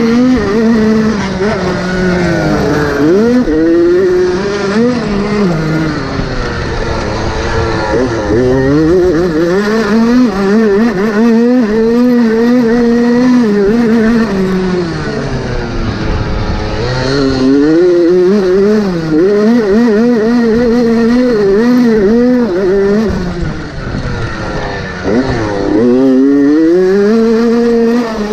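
Motocross motorcycle engines racing around the track, their pitch rising and falling over and over as they rev up and shift through the gears.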